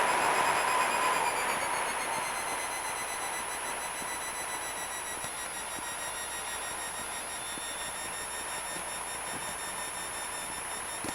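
Cessna 172 cabin noise on landing: the engine at low power and the rushing air die down over the first few seconds as the plane slows on the runway. A steady high tone sounds most strongly at the start.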